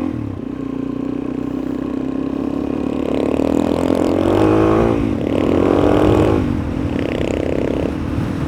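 Suzuki DR-Z400E single-cylinder four-stroke dirt-bike engine under way, revving up three times, about three, five and seven seconds in, between stretches of steadier running.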